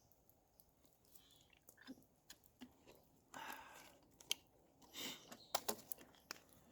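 Faint handling sounds while making coffee with a paper napkin as a makeshift filter: two short rustles and scattered small clicks and taps.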